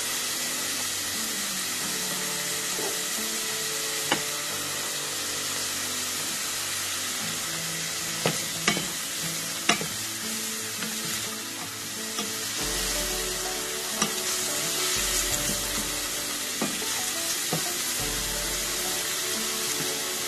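Chopped onion and garlic sizzling in hot olive oil in a stainless steel pot, stirred with a wooden spatula. A steady frying hiss, with a few sharp knocks of the spatula against the pot.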